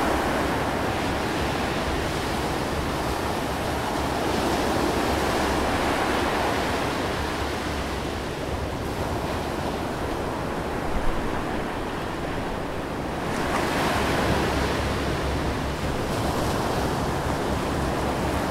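Ocean waves and surf washing steadily, swelling and easing every few seconds, with a single short bump about eleven seconds in.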